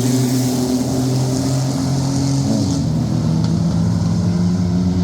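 Pack of stock racing trucks running hard on the speedway just after the green flag, several engines at racing speed overlapping in a steady loud drone. One engine note dips and climbs again about halfway through.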